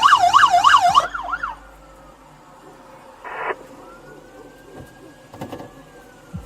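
Police car siren in a fast yelp, warbling up and down about four times a second, switched off about a second in and trailing away. A short beep follows in the quiet after it.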